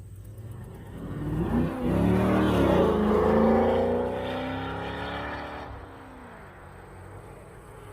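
A car engine revving and accelerating as the car pulls away. The pitch climbs and dips about two seconds in, then rises steadily while it is loudest, and the sound fades after about six seconds.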